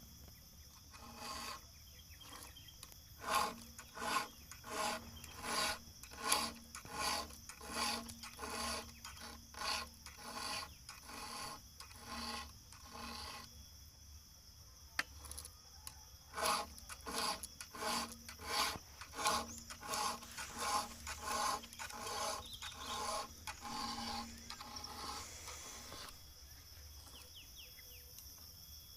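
Hand file rasping across the cutter teeth of a Stihl chainsaw chain, in regular sharpening strokes of about one and a half a second with a slight metallic ring. The strokes come in two runs with a pause of a few seconds between them.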